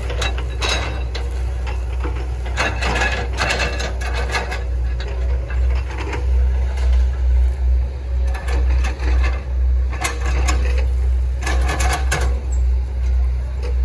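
Hitachi ZX110 MF excavator's diesel engine running with a steady low drone under load. Several irregular bursts of crunching noise break in, about five in all and up to two seconds each, as oil palm trunk wood is broken up.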